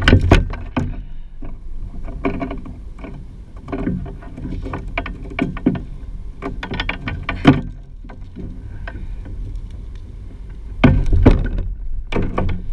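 Irregular knocks, clatter and thumps against a Hobie Pro Angler 14 fishing kayak's plastic hull as gear is handled aboard. There are loud hits right at the start, about halfway through, and a cluster near the end.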